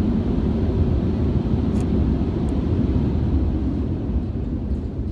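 Steady low rumble of automatic car wash machinery heard from inside a car, easing off slightly near the end.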